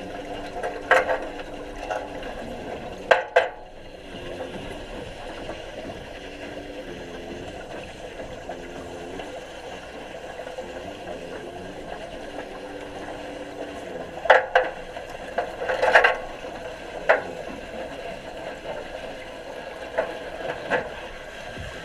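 Steady muffled noise in an underwater welding tank, broken by about nine short sharp knocks or clacks at uneven intervals, bunched early and in the second half.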